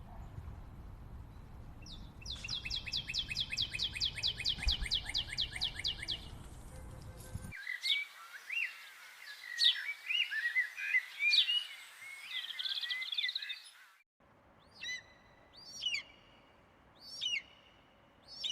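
Birdsong in three spliced clips. First a fast, even trill of about eight notes a second, then a jumble of varied chirps and whistles from about seven seconds in, and near the end short separate calls about once a second.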